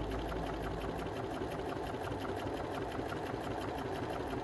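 Bernina B325 sewing machine running at higher speed, sewing straight stitch through eight layers of thick denim with a fast, even stitching rhythm.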